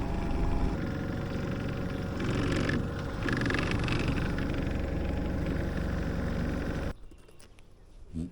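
Small boat's outboard motor running steadily, which cuts off suddenly about seven seconds in, leaving much quieter background.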